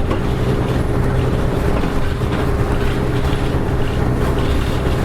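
Nissan Diesel KK-RM252GSN route bus running steadily, heard inside the bus: an even diesel engine hum with road and cabin rumble, holding the same pitch throughout.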